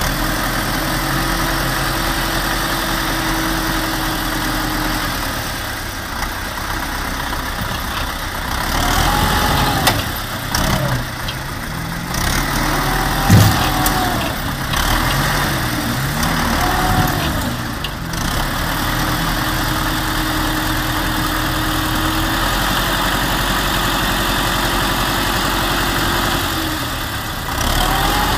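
Motor vehicle engine idling steadily, then revved up and down several times in quick succession through the middle, with one sharp knock about halfway through, before settling back to a steady idle.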